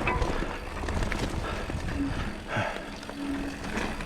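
Mountain bike ridden over rough trail: continuous rumble and rattle with scattered knocks and clicks, and a couple of brief low hums about two and three seconds in.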